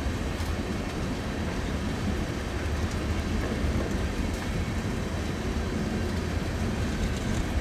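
Freight train of empty ethanol tank cars rolling slowly past, a steady low rumble of steel wheels on the rails.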